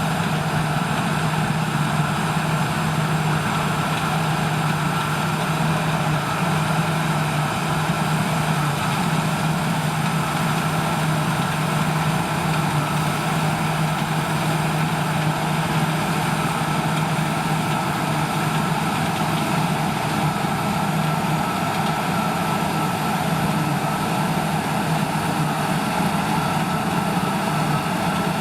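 Heavy farm machinery engine running steadily under constant load, a low hum with a thin steady whine above it and no change in speed.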